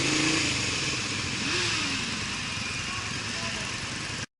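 Motorcycle running with steady wind and road noise, cutting off suddenly near the end.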